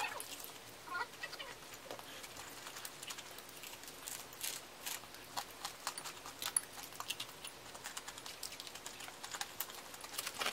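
Close-up eating sounds of crispy seasoned fried chicken: irregular small crunches, smacks and crackles from chewing and from fingers handling the chicken.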